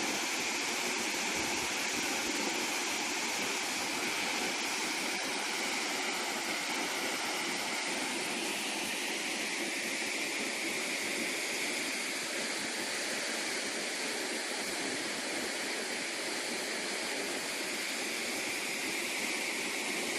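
Large waterfall: a steady, even rush of falling water with no break.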